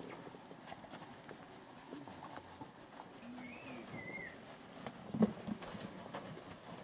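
A bird calls once about three seconds in, a wavering two-part whistle that drops at the end. It rises over quiet bush sound with scattered soft knocks and rustles, the loudest a sharp knock a little after five seconds.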